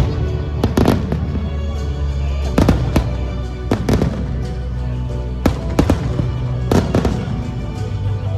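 Sharp, echoing bangs, often two in quick succession, about once a second, over music with a steady bass.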